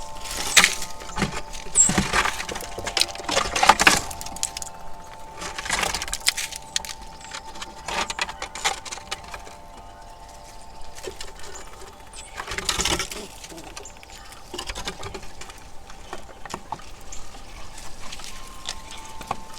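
Irregular bursts of rustling and crackling, loudest in the first four seconds and again about thirteen seconds in, over the steady ringing tones of a wind chime.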